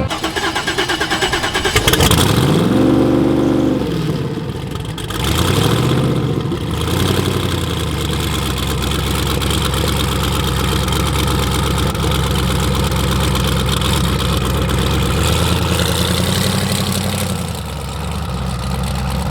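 Car engine revved twice, a longer, higher rev and then a shorter blip, then running steadily at idle with a slight rise in pitch near the end.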